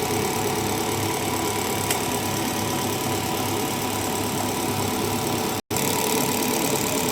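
Machinery running steadily with a rhythmic low throb, typical of a diesel engine or pump under test. It cuts out for an instant about three-quarters of the way through.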